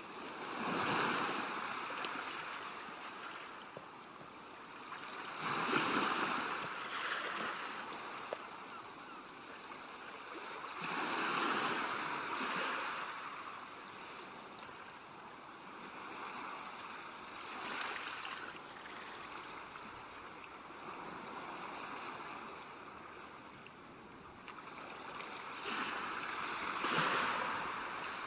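Ocean waves breaking on a shore, about every five or six seconds, each surge of surf swelling and washing out, with a steady wash of water between breaks.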